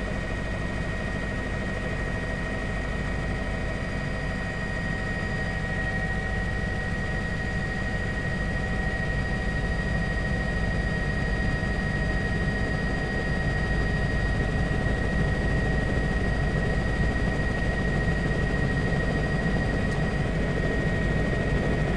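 Steady engine and airframe drone of a small survey aircraft, with a thin steady whine running over it.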